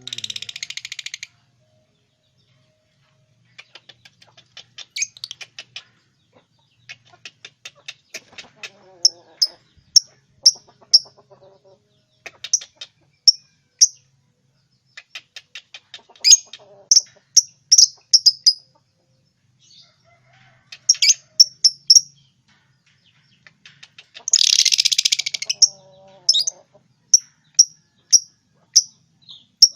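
Lovebirds chirping: runs of short, sharp, high chirps, with bursts of rapid, harsh chatter at the start and again about two-thirds of the way through.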